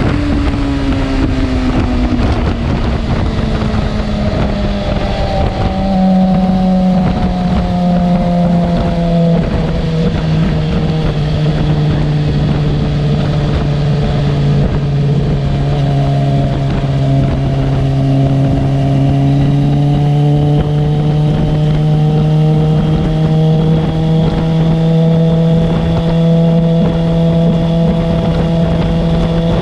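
Suzuki GSX-R750's inline-four engine running while the motorcycle is ridden. The engine note falls over the first few seconds, holds fairly steady through the middle, and slowly rises toward the end.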